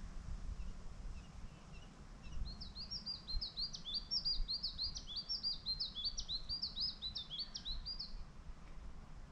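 A songbird singing one long song of rapid repeated high notes, about four a second, starting a couple of seconds in and stopping near the end, over a low steady outdoor rumble.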